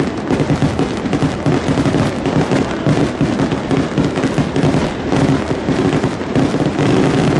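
Aerial fireworks bursting in rapid succession: a dense, unbroken volley of booms and crackles with no pause between shells.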